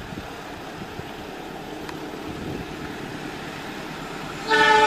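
Diesel locomotive hauling a passenger train as it approaches, a rising rumble of engine and wheels. Near the end the locomotive's horn starts, a loud chord of several notes held on.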